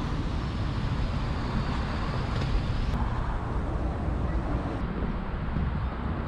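Steady low rumble of a parked Toyota SUV's engine idling.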